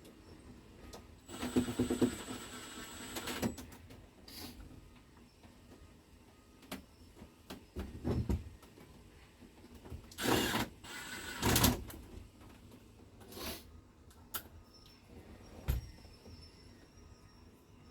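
Intermittent handling noises from work on a vehicle dash: clicks, knocks and rustling of parts. A louder two-second burst comes about a second and a half in, and two shorter ones come around ten and eleven and a half seconds in.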